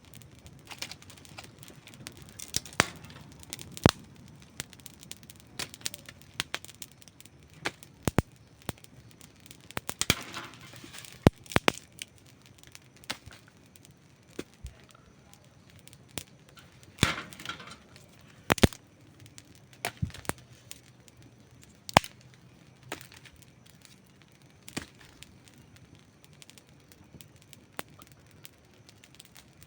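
Wood campfire crackling: irregular sharp pops and snaps over a soft low hiss of burning. There are brief flurries of rapid crackling about ten and seventeen seconds in.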